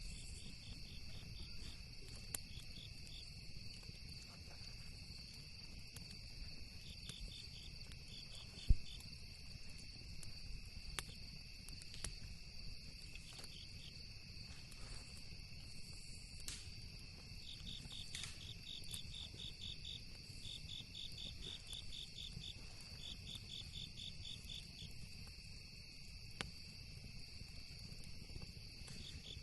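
Crickets and other insects chirping steadily at night: a constant high-pitched drone and bursts of quick, evenly pulsed chirps. A few sharp pops break through, one much louder about a third of the way in, likely campfire crackles, over a low steady rumble.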